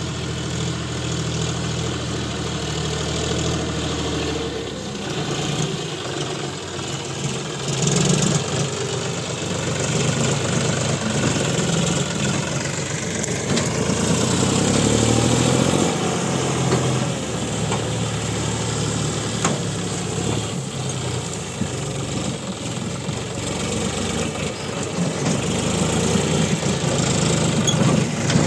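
Diesel farm-vehicle engine running steadily, its speed rising and falling at times.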